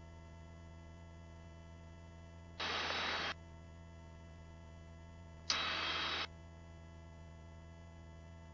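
Faint steady hum of a helicopter's cabin intercom feed, with two short bursts of hiss, each under a second, about three and five and a half seconds in, that cut in and out abruptly.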